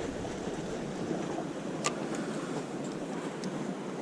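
Steady wash of sea waves and wind at the shore, with a single short, sharp high click about two seconds in.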